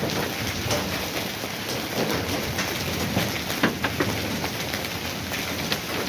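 Heavy rain falling steadily, with scattered sharper drop impacts standing out from the steady hiss.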